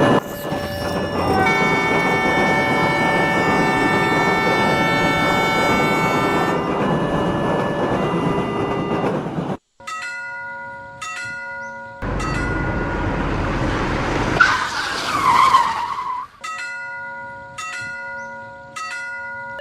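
Train sound effects from a railroad-crossing animation: a train rushing past with a sustained multi-note horn chord, then a railroad crossing bell striking steadily. A second train rush with a gliding tone follows, and the crossing bell strikes again near the end.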